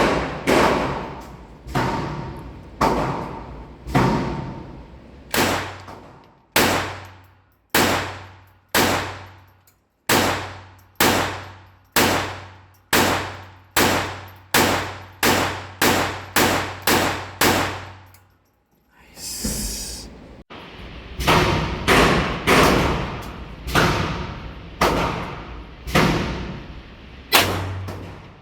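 Taurus TX22 .22 LR pistol firing a long string of single shots, each with a ringing echo. The pace quickens to about two shots a second, breaks for a couple of seconds about two-thirds through with a brief scuffling noise, then resumes.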